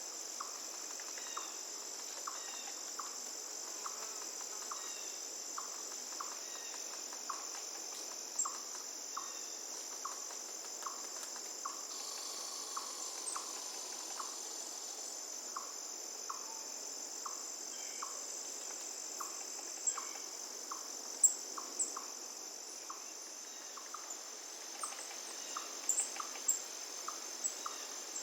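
Crickets trilling steadily in a continuous high buzz over a faint wash of running water, with a short lower note repeated about once a second and a few sharp high bird chirps near the end.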